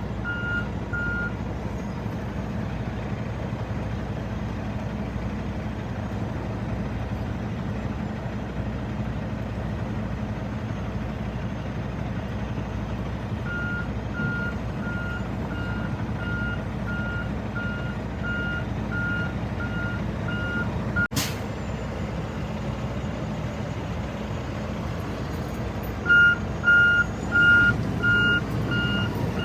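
Diesel truck engine idling steadily while a vehicle's reversing alarm beeps in runs, a bit more than one beep a second, the last run louder. A single sharp click comes about two-thirds of the way through.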